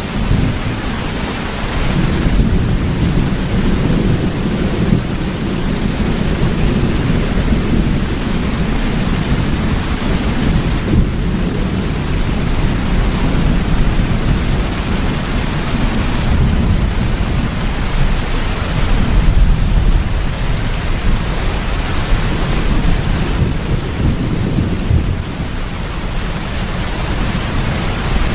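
Steady heavy rain with a continuous low rumble of thunder underneath, swelling and easing but never breaking.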